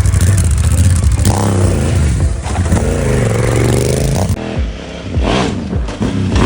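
Motorcycle engine revving through a GPR aftermarket exhaust, its pitch repeatedly rising and falling. The sound changes abruptly about four seconds in, as if to another bike or recording, and revs again.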